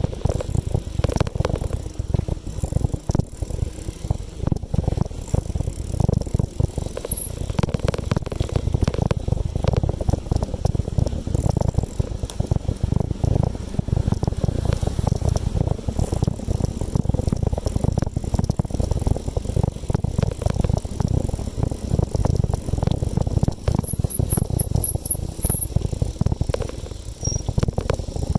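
Bicycle being ridden: a steady low rumble of wind and road noise with frequent small rattles and clicks from the bike.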